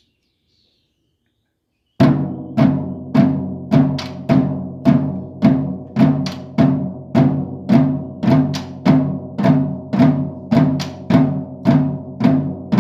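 Percussion ensemble starting to play about two seconds in: a steady beat of drum strikes, roughly two a second, over ringing pitched tones.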